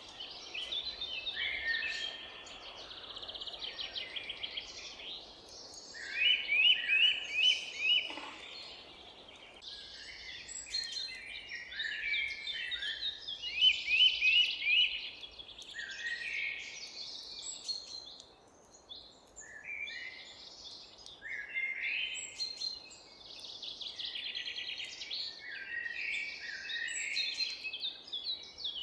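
Several songbirds singing at once in woodland, with overlapping chirps, trills and fast runs of sharp notes. The loudest are two bright rattling phrases of quick repeated notes, about 6 seconds in and again about 13 seconds in, over a faint steady background hiss.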